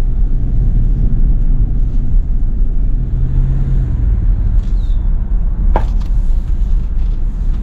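A 2011 Ram 1500's 5.7 L HEMI V8 pulling the truck along, a steady low engine and road rumble. An engine note holds about three seconds in, then drops away. A single click comes near the six-second mark.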